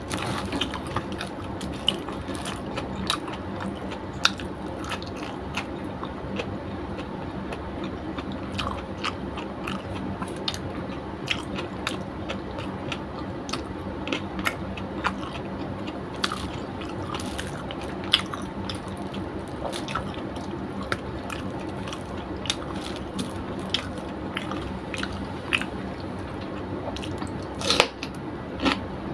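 Close-up eating sounds: chewing, biting and crunching food, with irregular wet mouth clicks and smacks throughout, over a steady low hum.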